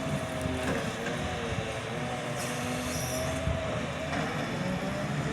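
Heavy vehicle running steadily with a wavering whine, and a brief high squeal about halfway through.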